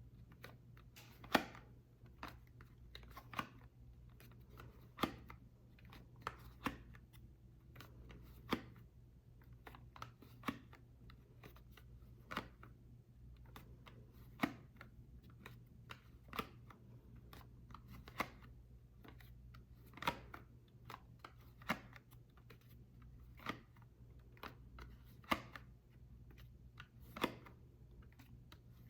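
Soap being cut or snapped by hand: a crisp crack about every two seconds, with fainter small clicks in between.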